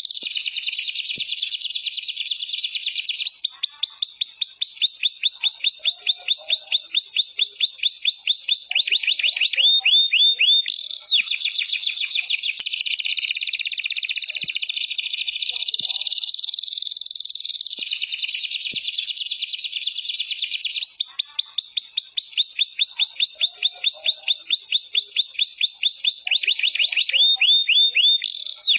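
Canary song: an unbroken run of fast, high trills and rolling phrases, with a series of short falling notes about ten seconds in. The same sequence of phrases comes round again some 17 seconds later, as in a looped song recording.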